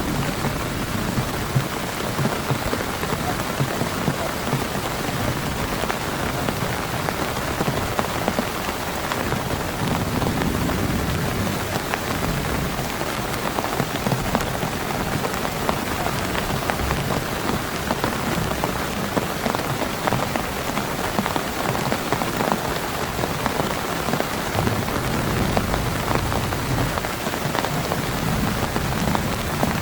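Heavy rain falling steadily, a dense stream of drops striking a surface.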